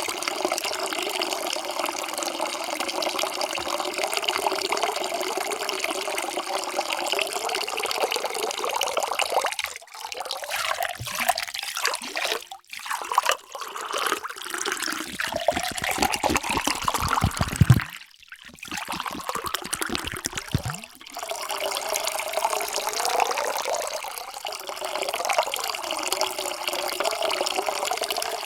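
Water being poured into a vessel in a run of separate pours with brief breaks between them. In one pour the ringing pitch climbs as the vessel fills.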